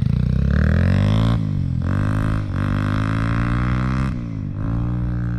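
Motorcycle with an aftermarket Akrapovic exhaust accelerating hard through the gears. The exhaust note climbs in pitch and drops back at each shift, several times.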